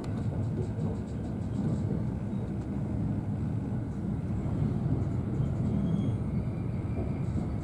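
Electric commuter train running, heard from inside the carriage: a steady low rumble of wheels on track.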